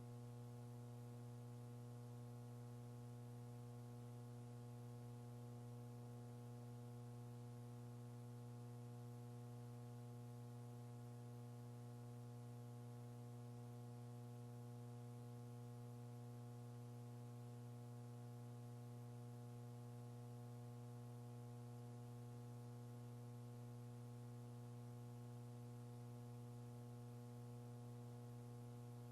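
Steady electrical mains hum with a faint hiss on an idle audio line; no speech. The hum holds one unchanging low pitch with a row of overtones above it.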